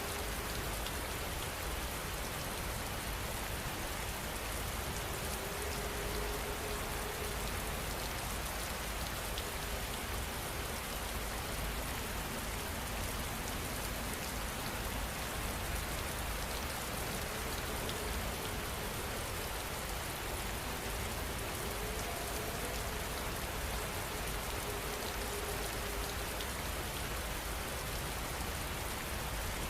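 Heavy rain falling steadily, an even hiss of drops landing on surfaces.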